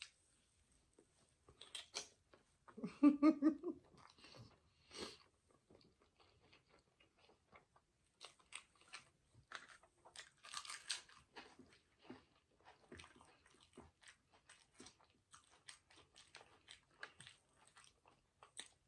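Close-miked chewing of a chili cheese hot dog: many small, irregular wet mouth clicks while the food is bitten and chewed. A short hum from the eater about three seconds in is the loudest sound.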